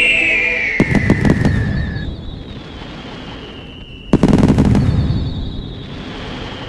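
Fireworks going off: two rapid volleys of crackling bangs, one about a second in and another about four seconds in, over a high whistle that slowly falls in pitch.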